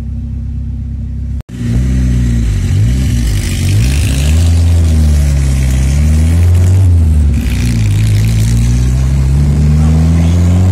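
Turbocharged carburetted car engine heard from inside the cabin, pulling hard through the gears. After a brief cut-out about a second and a half in, its pitch climbs, drops at a gear change, then climbs again, with a hiss riding above the engine as it pulls.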